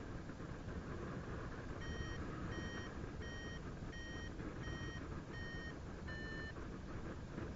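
Paragliding variometer beeping a run of seven short tones, slowing slightly and dipping a little in pitch, over steady wind rush on the microphone; the beeps signal that the glider is climbing in lift.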